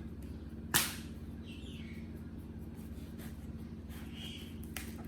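One sharp clack about three quarters of a second in, then a few faint short high squeaks that fall in pitch, typical of a baby monkey, and light clicks near the end, all over a steady low hum.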